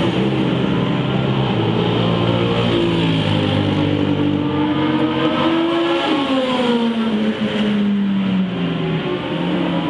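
Engine of a car lapping a race circuit. It pulls with its pitch climbing slowly to a peak about six seconds in, drops for about two seconds as it slows, then picks up again near the end, over a steady rush of wind and road noise.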